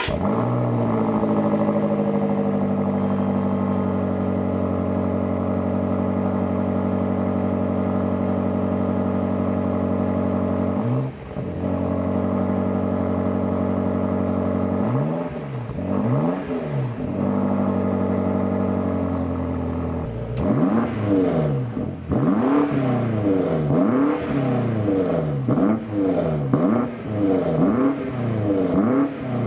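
BMW M8 Competition's 4.4-litre twin-turbo V8 settling from its start-up flare to a steady idle, then blipped: one rev about eleven seconds in, two more a few seconds later, and a quick run of revs about one a second over the last third. Its exhaust is muted by the petrol particulate filter, which the owner feels leaves it a bit castrated.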